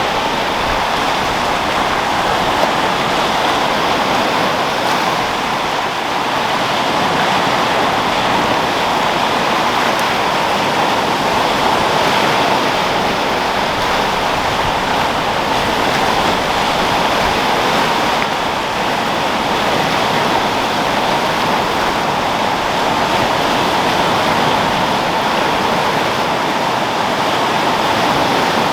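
Sea waves rolling and breaking in a steady wash of surf, with wind.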